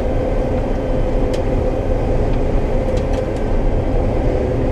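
Combine harvester running steadily while cutting soybeans: an even low engine and machinery rumble with a constant hum, and a few faint ticks.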